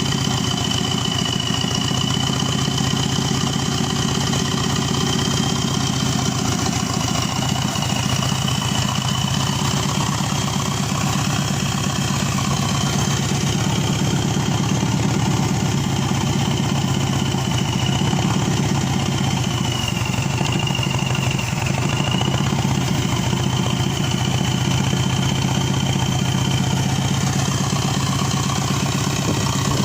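Subaru EJ255 2.5-litre turbocharged flat-four engine, out of the car, idling steadily, with a thin high-pitched whine running above the engine note.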